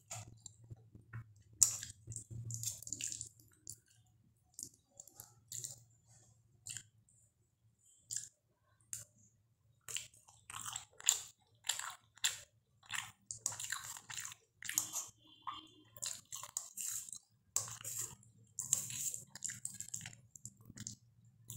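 Close-up chewing and wet mouth smacks of someone eating soft Maggi masala noodles, in irregular bursts that are sparse at first and come thick and fast through the second half.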